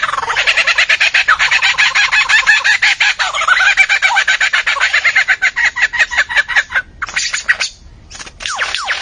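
Bird calling in a fast run of harsh, repeated notes, about ten a second, which breaks off briefly near the end before starting again.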